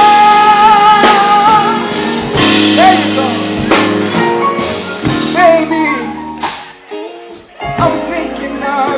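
Live band music with a singer: a long, wavering note is held for about the first two seconds, over bass, sustained chords and drum hits.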